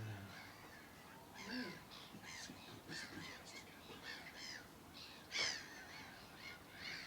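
Many birds calling over one another, short harsh calls repeating and overlapping, with one louder call about five seconds in.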